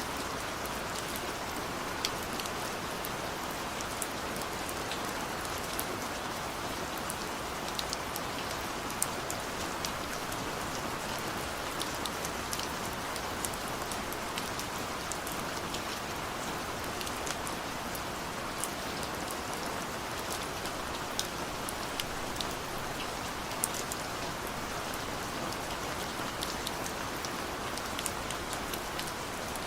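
Heavy rain falling steadily, an even hiss with the sharp ticks of single drops striking close by scattered throughout.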